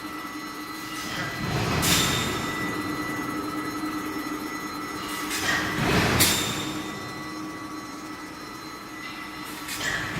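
Machinery of a railway tie plate induction hardening line: a steady hum with several high, steady tones, broken by loud rushing surges that build and end sharply, about two seconds in, again about six seconds in and near the end, as steel plates move along the roller conveyor.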